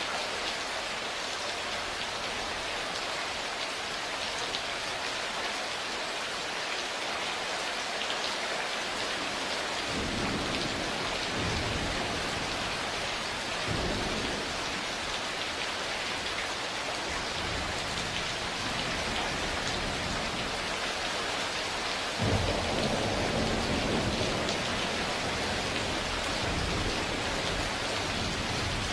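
Steady rain hissing, with thunder rolling in: low rumbles begin about a third of the way in, and a sharper, louder thunderclap about three-quarters of the way through rumbles on for several seconds.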